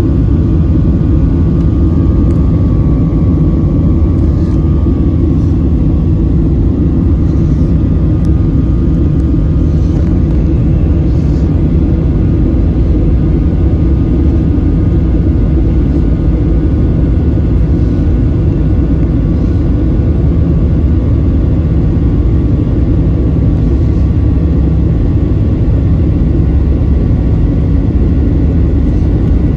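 Boeing 737-800's CFM56-7B jet engines at takeoff power, heard from inside the cabin as a loud, steady low rumble with rushing air noise.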